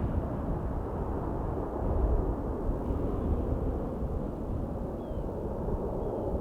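Wind gusting and rumbling on the microphone, a steady low roar that swells and eases, with two faint short high chirps near the end.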